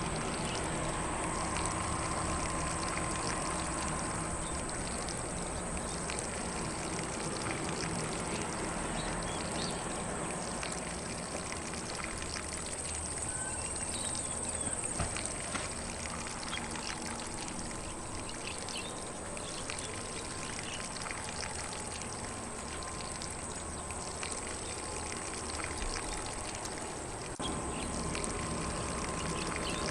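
Lawn sprinkler spraying water across grass in a steady hiss, with faint birdsong behind it.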